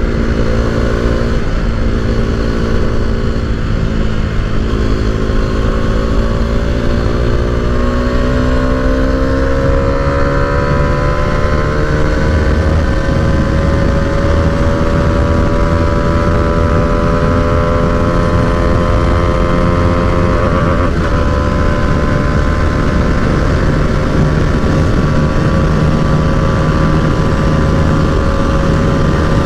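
Bajaj Dominar 250's single-cylinder engine pulling hard at speed, its pitch climbing slowly for about fifteen seconds and then holding steady near top speed, over heavy wind rush.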